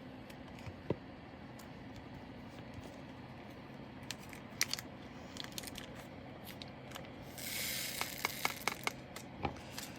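Small clicks and taps of diamond-painting drills being picked up and pressed onto the canvas with an applicator pen, scattered and getting busier about halfway through, with a brief rustle of paper or plastic a little past the middle, over a low room hum.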